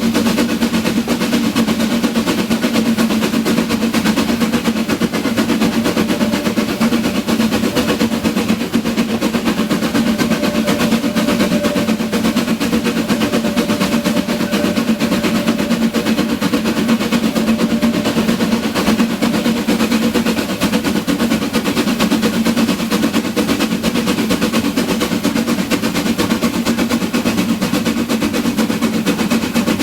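Narrow-gauge steam train running: a rapid, even rattle of beats over a steady low hum.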